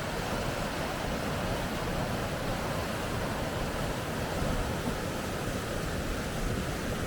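River rapids rushing, a steady, unbroken roar of churning water.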